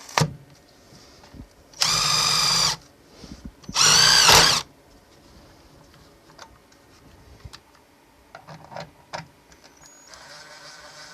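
Power drill running in two bursts of about a second each, the second louder, its pitch rising then falling. Scattered small clicks and knocks follow.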